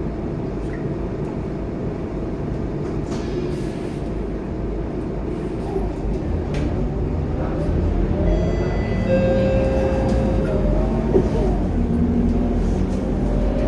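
Scania K230UB city bus running under way, a steady low engine and road rumble. From about eight seconds in it grows a little louder and a whine rises in pitch as the bus picks up speed.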